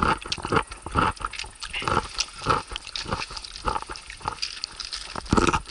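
Someone chewing a crunchy lightly salted pickled cucumber close to the microphone, in a steady rhythm of about two chews a second.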